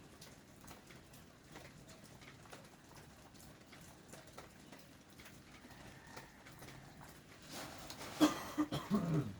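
Light patter of rain drips ticking faintly and irregularly; near the end a dog gives a short, louder low vocal sound whose pitch falls.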